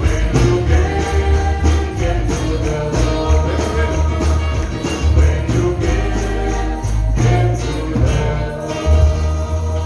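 Live gospel band music with a steady beat, sustained low bass notes and a jingling tambourine, without singing.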